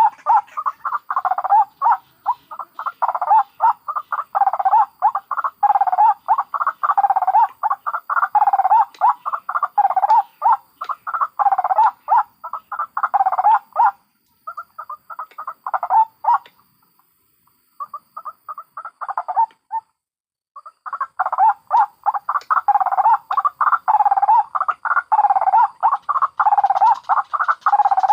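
White-breasted waterhens, adults and chicks together, calling in a loud, continuous stuttering chorus of croaking notes, a strong note repeating about twice a second. The calling breaks up and stops for a few seconds past the middle, then starts again.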